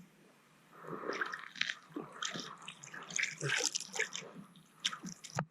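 Water splashing and dripping in irregular bursts, starting about a second in: a hooked trout thrashing in the ice-fishing hole as it is brought up.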